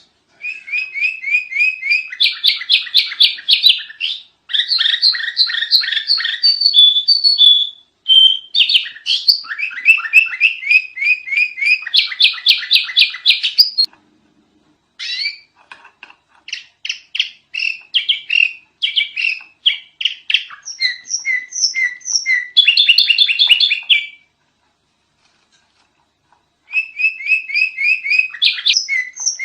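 Sooty-headed bulbul (kutilang) singing loudly in a continuous chatter: phrases of rapidly repeated high chirping notes, several a second, each phrase a few seconds long with brief breaks, and one longer pause of a couple of seconds near the end.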